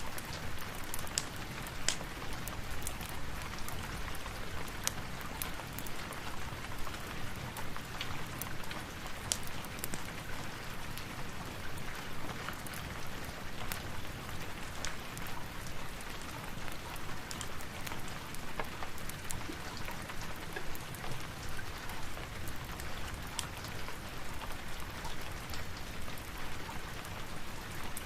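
Steady rain, with scattered sharp crackles of a fire popping through it.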